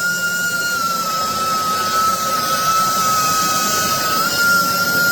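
BISSELL Revolution HydroSteam Pet carpet cleaner's suction motor running, a loud, steady rush of air with a high whine that shifts slightly in pitch about four seconds in.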